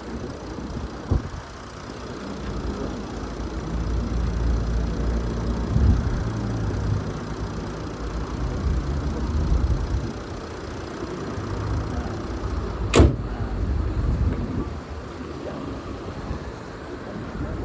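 A car engine running with a steady low rumble that swells and eases, with a sharp knock about a second in and a louder sharp thump about 13 seconds in.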